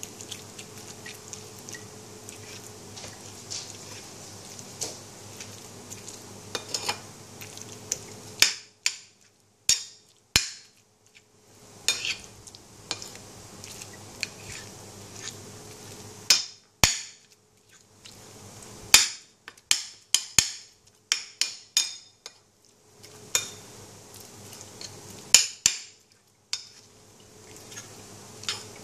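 A utensil clinking and tapping against a dish, in irregular sharp strikes, some ringing briefly, with pauses between them, over a faint steady hum.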